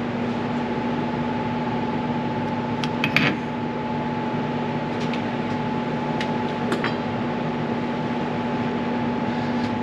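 Steady mechanical hum, holding two even tones throughout, with a few light clicks and a short clatter about three seconds in.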